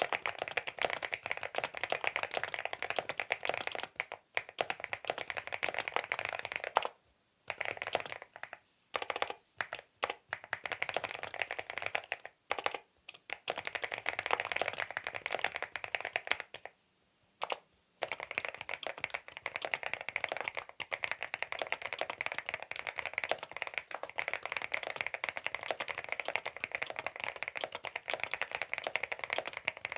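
Typing test on a CIDOO V87 aluminium-case tenkeyless mechanical keyboard fitted with its stock linear switches: rapid, dense key clacks, with short breaks about seven seconds in and again around seventeen seconds.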